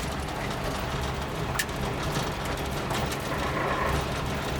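Suzuki Jimny's small three-cylinder engine running steadily on the move, with tyre and road noise. A single sharp click sounds about a second and a half in.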